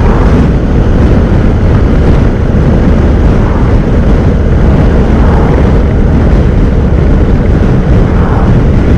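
Steady wind rush on the microphone from riding a Honda NC750X motorcycle at road speed, with the bike running underneath.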